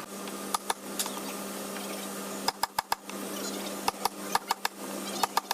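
Sharp knocks and taps from work on wood, coming irregularly and in quick runs of three or four, over a steady low hum. Faint bird chirps come now and then.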